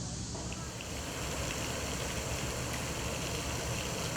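Steady rushing outdoor background noise with no clear single source, changing slightly about half a second in.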